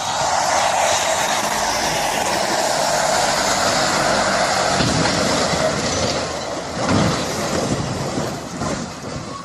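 Steady road and tyre noise of a vehicle moving on an icy highway, with one heavy thud about seven seconds in.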